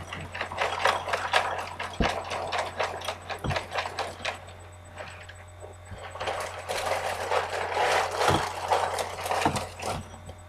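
Dry Cheerios being poured into a cereal bowl: a dense rattle of small pieces landing, in two pours with a short pause between, and a few light knocks.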